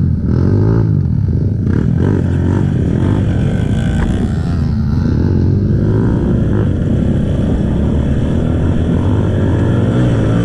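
Kawasaki KLX trail bike's single-cylinder four-stroke engine with its stock exhaust, running steadily while riding, the revs rising and falling.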